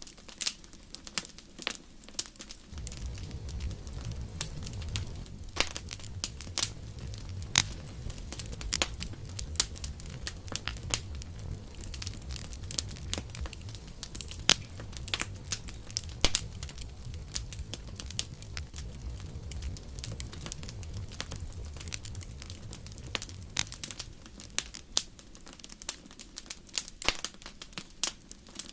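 Campfire crackling, with frequent irregular sharp pops and snaps. A low rumble sets in a few seconds in and fades out near the end.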